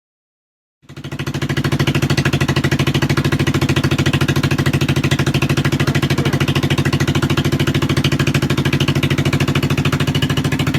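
1971 Honda CB350's parallel-twin engine idling steadily with a fast, even pulse.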